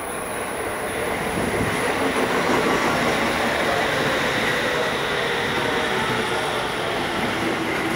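Toei Shinjuku Line 10-300 series train running through the station, a steady rumble of wheels and motors that grows a little louder about a second in.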